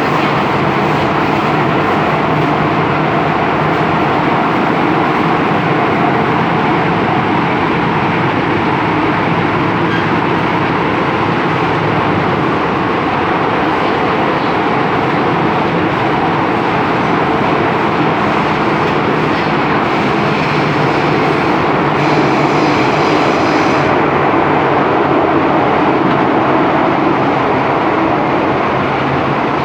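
MTR M-train electric multiple unit running steadily at speed: a continuous rumble of wheels on rail and running gear, with a faint high whine for a couple of seconds about three-quarters of the way through.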